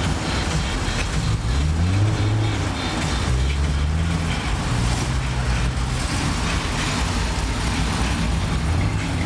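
Car engine revved once, its pitch rising and falling about a second and a half in, then running steadily with other engines running nearby.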